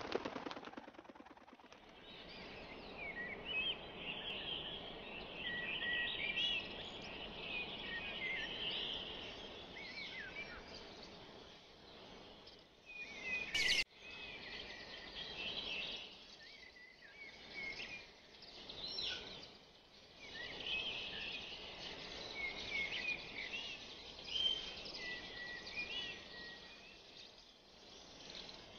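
Birds chirping and trilling over a steady outdoor background hiss, with a brief louder sound about halfway through.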